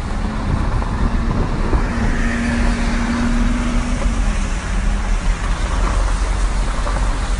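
Heavy rain and hail falling steadily on a car, a loud even hiss, with a steady low hum under it for the first four seconds.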